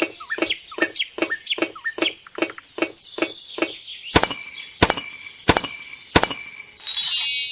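Bird-like chirping with a run of sharp clicks, quick at first and slowing to one every half second or so, then a short burst of high chirping tones near the end.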